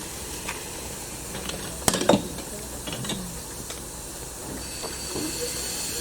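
Steam locomotive at a standstill, hissing steam, with two sharp metallic knocks about two seconds in. A steady high-pitched hiss joins about two-thirds of the way through.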